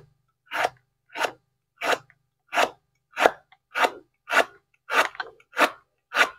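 Steel cleaver slicing a raw banana blossom on a wooden chopping board: a crisp crunch through the layered bracts with a light knock on the board at each stroke, about ten even strokes at roughly one and a half a second.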